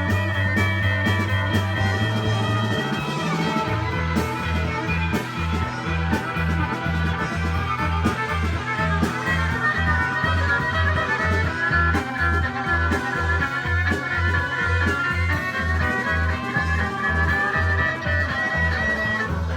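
Live rock band playing an instrumental passage. The bass holds a low note, then about three seconds in switches to a quick pulsing repeated note a few times a second, under sustained guitar tones and drum cymbals.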